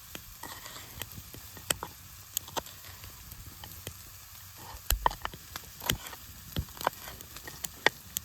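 Food frying in a carbon steel pan over a small wood fire: a faint sizzle with irregular sharp pops and crackles, and a dull knock about five seconds in.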